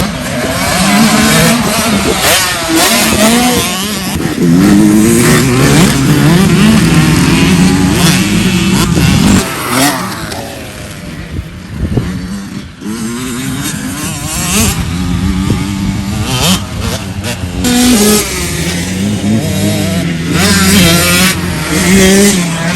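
65cc two-stroke motocross bike engine revving hard and dropping back again and again as the rider works the throttle and gears around the track. The engine is quieter for a few seconds around the middle, then climbs again.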